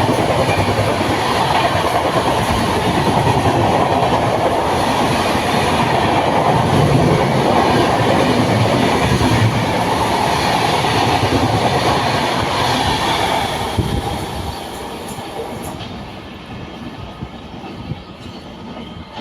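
Indian Railways express train running past at speed, its wheels and coaches making a loud, steady rushing rumble. Near the end the last coaches go by and the noise falls away.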